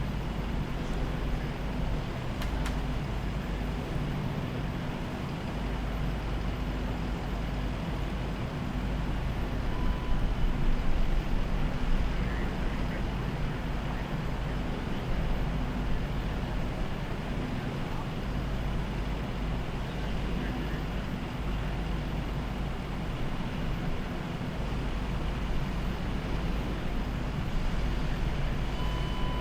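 Steady road traffic noise with vehicle engines running underneath, swelling slightly for a couple of seconds partway through.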